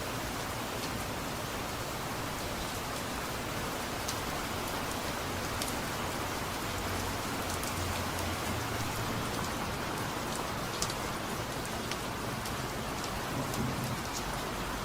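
Steady rain falling, a continuous even hiss with individual drops ticking sharply here and there.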